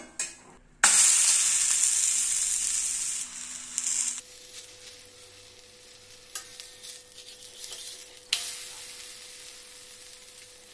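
Ragi and moong dal batter patty sizzling in sesame oil on a hot cast-iron dosa tawa. The sizzle starts suddenly loud about a second in and fades, then flares up again about eight seconds in as the patty is turned over.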